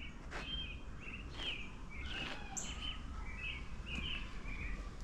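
Small birds chirping repeatedly in short, quick calls over a steady low background rumble.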